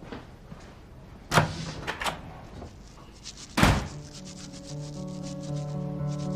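Two light knocks, then a louder thump a little past halfway, as of a door being shut. Soft background music with a steady light beat comes in right after.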